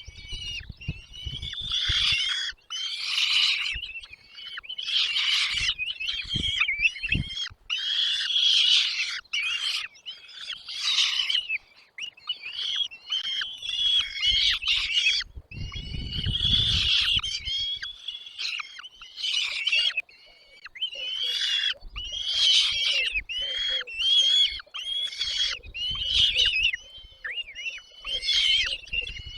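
Nestling birds calling over and over in harsh, high, squeaky calls, one after another with hardly a pause: chicks begging for food from their parents.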